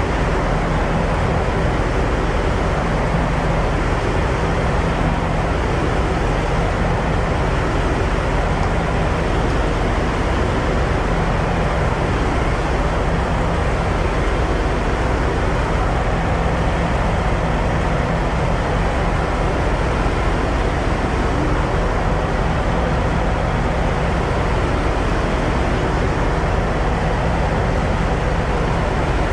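Semi truck's diesel engine running steadily, a constant low hum with a steady noise over it.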